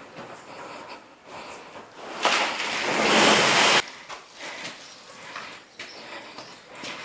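A load of loose fill sliding and pouring out in a rushing scrape, about a second and a half long, starting about two seconds in and cutting off suddenly, with quieter scuffing and rustling around it.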